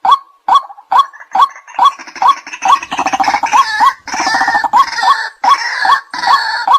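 White-breasted waterhen calling: a loud, evenly repeated "kwak" note a little over twice a second. From about two seconds in until near the end, a harsher, rattling chatter of waterhen calls overlaps it.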